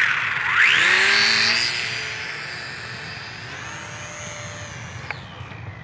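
Micro RC plane's brushed electric motor and propeller spooling up to a high whine as the throttle is pushed for launch, the pitch rising twice in quick succession. It then holds a steady whine that fades as the plane flies away.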